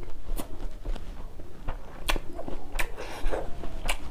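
Close-miked eating sounds: chewing with wet mouth clicks and smacks, irregularly spaced, with a short rougher patch about three seconds in.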